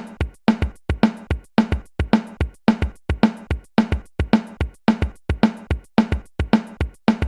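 Steady drum beat: kick drum, snare and hi-hat playing a fast, even repeating pattern.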